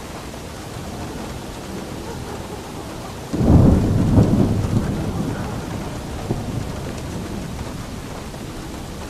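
Steady rain, with a sudden clap of thunder about a third of the way in that crackles briefly and rolls off into a fading rumble over the next few seconds.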